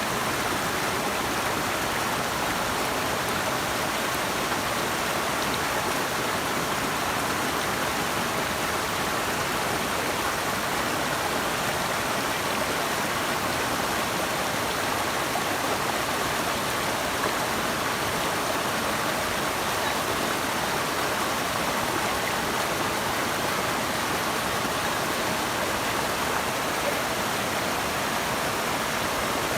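Steady, unbroken rush of flowing water, fullest in the middle pitches, with no separate splashes or changes.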